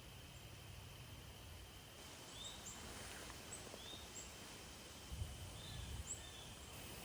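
Faint birdsong: short high chirps, about one a second from two seconds in, over a quiet steady background hiss. A low rumble comes in briefly near the end.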